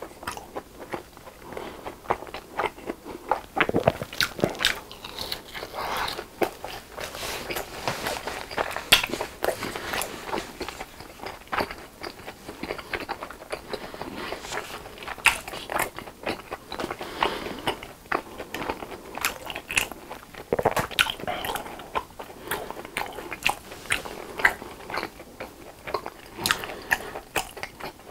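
Close-miked crunching and chewing of a crisp fried cheese stick coated in Ppuringkle seasoning: many sharp, irregular crackly bites and chews, coming in clusters.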